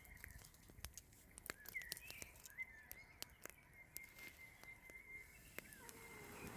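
Quiet outdoor ambience: faint birds chirping, with one thin whistled note held for a couple of seconds, over scattered small clicks and crackles.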